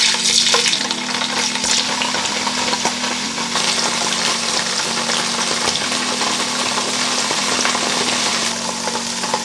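Slabs of firm tofu sizzling steadily as they pan-fry in hot oil in a nonstick frying pan.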